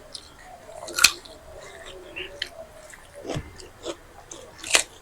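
People eating a meal of fermented rice with crunchy fried snacks: chewing and crunching, with scattered small clicks and two sharp louder clicks, about a second in and near the end.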